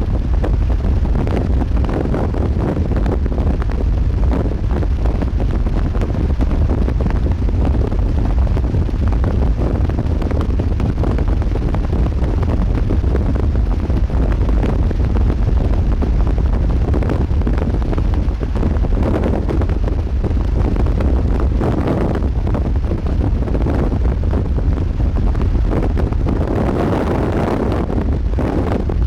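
Strong wind buffeting the microphone: a steady low rumble with a gust that swells near the end.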